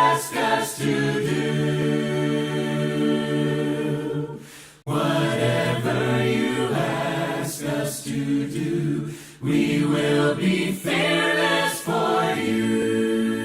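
Choir singing long held notes to close a worship song, with brief breaks about four and a half seconds in and again a little after nine seconds.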